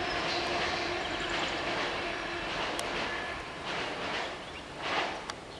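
A passing train's steady rumble slowly fading as it moves away. A steady tone within it stops about a second in, and the noise briefly swells once near the end.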